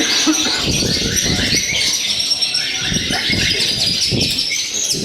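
Many caged songbirds chirping and singing at once in a dense, overlapping chorus of high chirps and trills.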